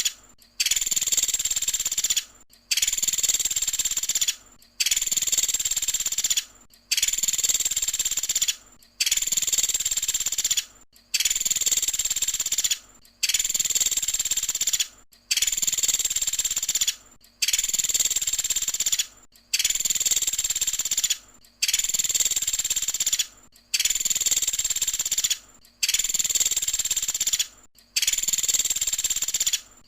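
Pelatuk sampit woodpecker giving its rapid, high-pitched trilled call over and over, each burst lasting nearly two seconds, with a short gap before the next, about every two seconds.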